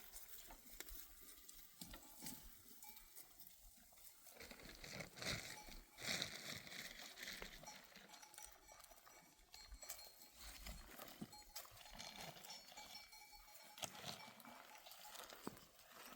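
Faint ringing of livestock bells with scattered small clicks and rustles, a little louder about five to seven seconds in.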